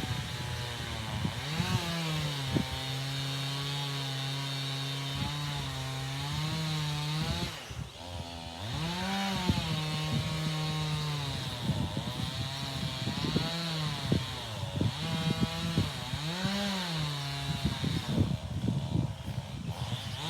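Chainsaw running at high revs, cutting into an ash trunk. Its pitch sags and recovers several times as the chain loads in the wood, with a short drop a little under halfway.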